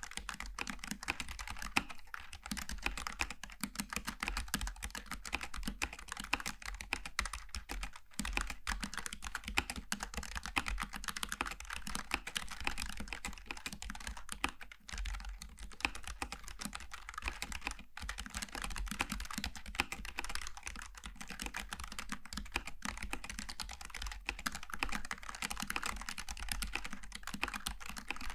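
Continuous fast typing on a Logitech G915 TKL low-profile mechanical keyboard with tactile switches, a steady stream of key clicks with a few brief pauses.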